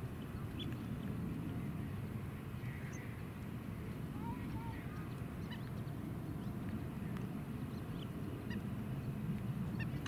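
Birds calling: scattered short chirps and two short arched calls about four to five seconds in, over a steady low rumble.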